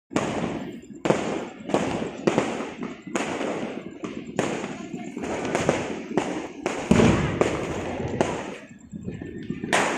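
Fireworks exploding in a rapid series of about fifteen sharp bangs, one every half second to second, each followed by a rumbling tail. The heaviest bang comes about seven seconds in.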